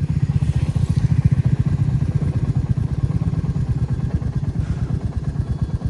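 Motorcycle engine idling with a steady, rapid low pulse.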